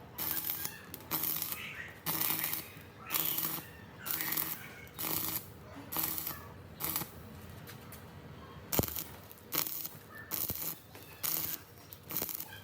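Rhythmic hand scraping strokes on a rusted metal part, about one a second, with a few sharp clicks near the end.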